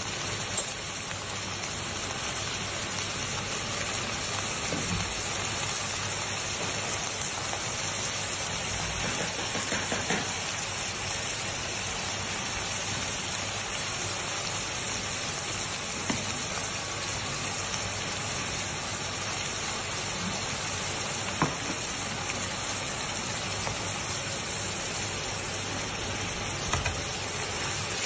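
Minced meat, sausage and sauce sizzling steadily as they fry in a wok and are stirred with a wooden spatula, with a few short knocks of the spatula against the pan.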